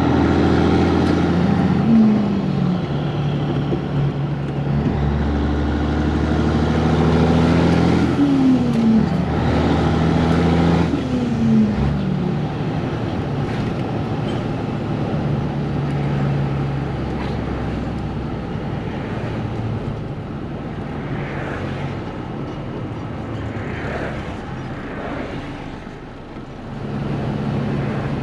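Diesel engine of a Peterbilt 362 cabover semi truck pulling through the gears: its pitch climbs and then drops sharply at each upshift, about two, nine and twelve seconds in. It then settles into a steadier, somewhat quieter run.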